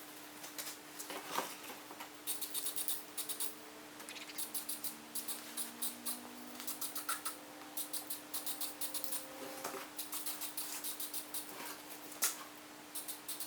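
Hand sanding of dried filler primer on a car body panel: runs of quick scratchy strokes of sandpaper, with short pauses between, over a steady low hum.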